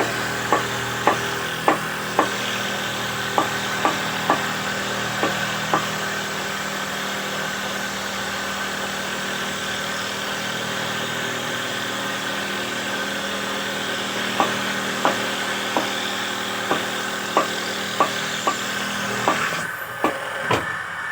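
Homemade wood dowel machine running with a steady motor hum, with sharp irregular knocks of the wood stock against the machine. About twenty seconds in, the hum changes abruptly.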